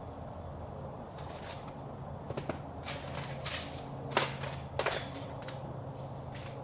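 Handling of the shutter motor and its mounting bracket: a handful of sharp clicks and metal clinks, the loudest in the middle, over a steady low hum.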